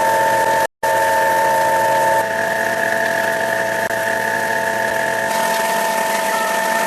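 Electric power-tool motor running at a steady speed with a constant high whine, briefly cut off for an instant near the start.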